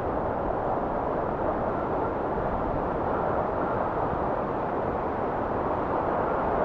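Blizzard wind blowing steadily, a dense low rushing that swells slightly near the end.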